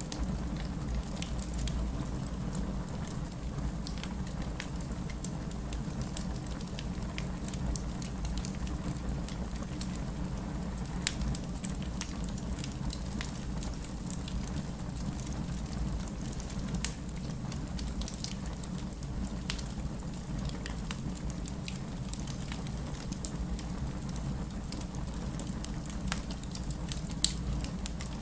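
Wood fire burning: a steady low rumble of flames with scattered sharp crackles and pops, one pop louder than the rest near the end.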